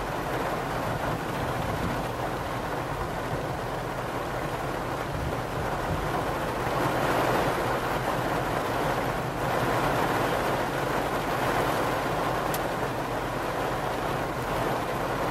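Rain falling steadily, a continuous hiss that swells louder for a couple of stretches in the middle.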